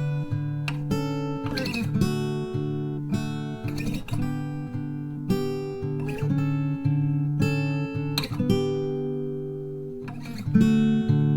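Background music: acoustic guitar strumming and picking chords that change about every second.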